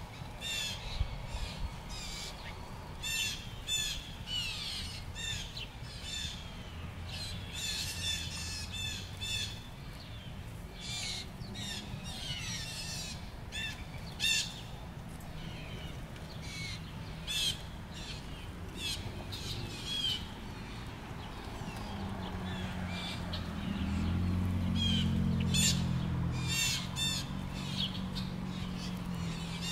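Birds calling in short squawks and chirps, blue jays among them, in bursts throughout. A low engine-like hum swells up in the last several seconds.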